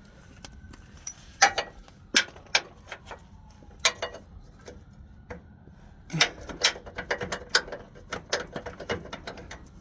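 Hand tools working on the mounting of a truck's steering rack: irregular sharp metal clicks and knocks, coming thicker in the second half.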